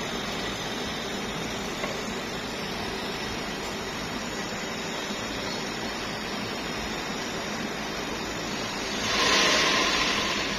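A steady background hiss, then a loud burst of hissing from pressurised gas about nine seconds in, lasting about a second and a half.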